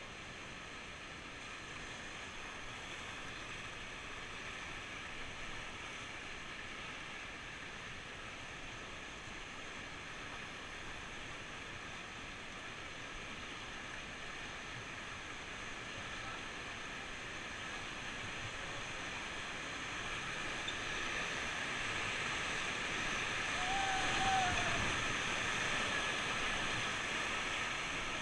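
Fast-flowing river water rushing over rapids, a steady noise that grows louder toward the end.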